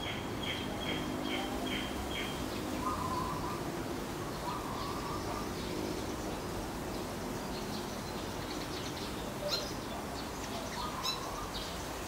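Birds calling: a quick run of about six short, evenly spaced high notes at the start, then a few brief lower calls later on, over a low steady hum.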